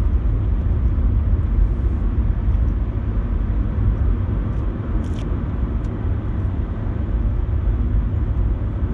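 Steady road and engine rumble heard from inside a moving car's cabin, low and even throughout, with a faint tick about five seconds in.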